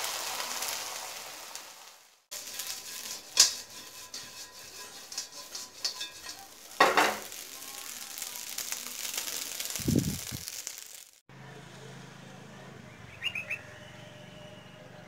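Food sizzling in a hot nonstick frying pan: first a frying egg with chopped aromatics, then fried rice being stirred, with many small clicks and scrapes of the spatula against the pan and a dull thump about ten seconds in. After a cut near the end, a quieter low hum with a few short bird chirps.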